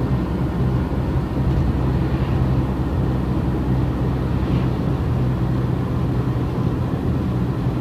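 Car being driven at a steady speed: a steady low engine hum with road noise, unchanging throughout.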